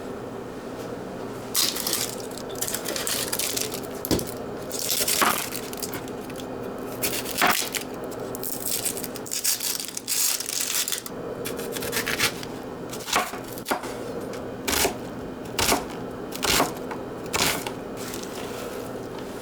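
A string of short crunching and crackling noises at irregular intervals, over a steady low hum.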